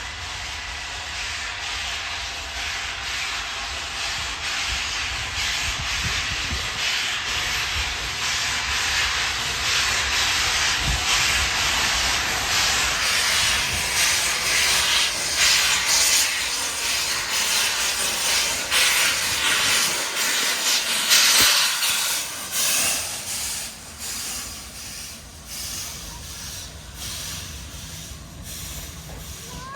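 Flying Scotsman, an LNER A3 three-cylinder steam locomotive, approaching and passing close by under steam with a loud steady hiss. A run of beats builds as it nears, peaking a little past the middle before easing away.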